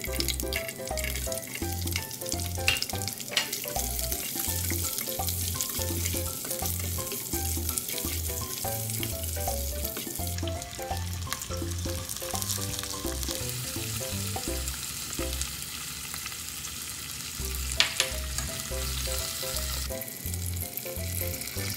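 Green capsicum and onion pieces sizzling as they fry in hot oil in a non-stick pot, stirred with a plastic spatula. Now and then the spatula knocks against the pot, once loudest near the end.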